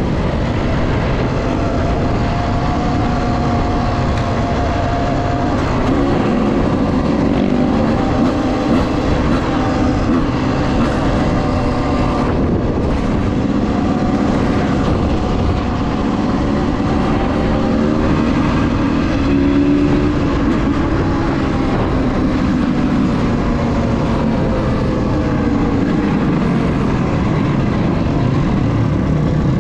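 Enduro dirt-bike engine running under load on a trail ride, its pitch rising and falling with the throttle over a constant low rumble.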